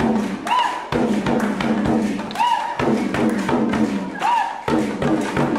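A group chanting or singing a repeating song while children beat small hand drums in an uneven clatter; a high sung call rises and falls about every two seconds.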